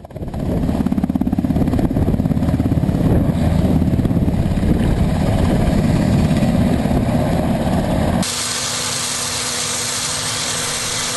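UH-60 Black Hawk helicopter running: a heavy low rumble with a fast, even rotor beat. About eight seconds in it switches abruptly to a steady loud hiss over a low hum.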